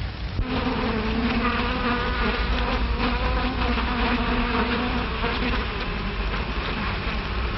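Buzzing of a bee, a steady, slightly wavering drone that starts about half a second in. It sounds over the hiss and low hum of an early sound-film soundtrack.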